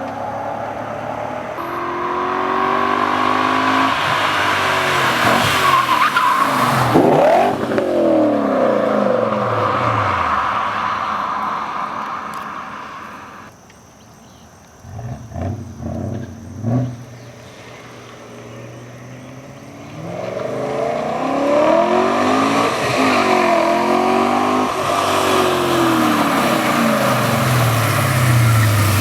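BMW E39 M5's 4.9-litre V8 exhaust under hard acceleration, its pitch climbing and dropping repeatedly through the revs. About halfway it falls quieter, with a few short blips, then climbs loud again with further rising and falling sweeps.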